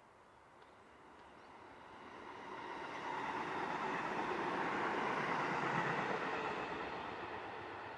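Seibu Railway electric train passing: its running noise swells as it approaches, is loudest about five to six seconds in, then fades as it goes away.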